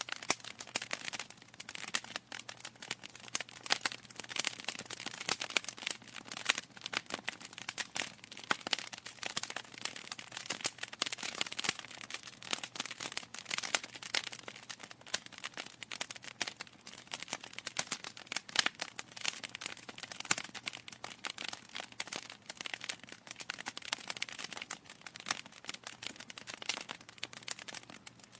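Wood fire in a fireplace crackling continuously, with dense irregular pops and snaps from the burning logs.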